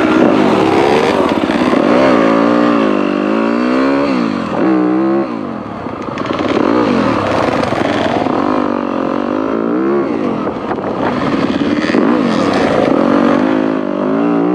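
Dirt bike engine being ridden along a trail, revs rising and falling over and over as the throttle is opened and rolled off, with a brief drop about five seconds in.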